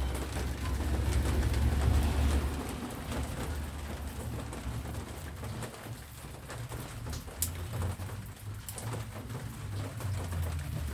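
Rain falling, an even patter with scattered drop clicks, over a low rumble that is loudest in the first couple of seconds.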